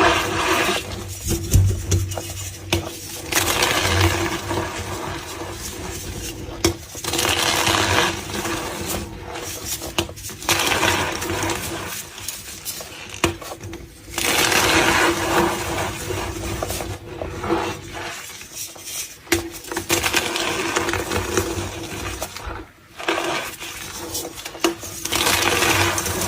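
Gym chalk being squeezed and crushed by hand, giving squeaky crunching in repeated swells of a few seconds each, with an occasional sharp snap.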